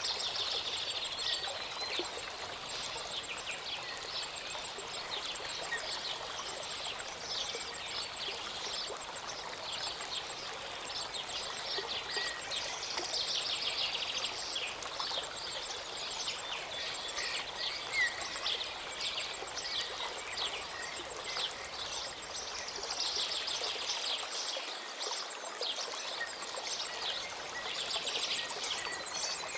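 Small mountain waterfall or stream running steadily, with several birds chirping and singing throughout.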